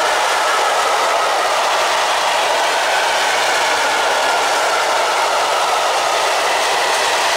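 Freight train of low open coal wagons rolling past at close range: a loud, steady rolling noise of steel wheels on the rails, with faint ringing tones in it.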